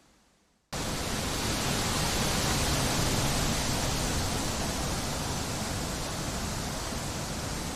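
Wind blowing as a steady, even noise that starts abruptly about a second in, after a moment of near silence.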